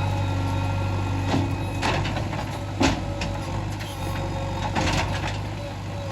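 JCB 3DX backhoe loader's diesel engine running steadily under load, with a handful of short sharp knocks and clanks, about four in all.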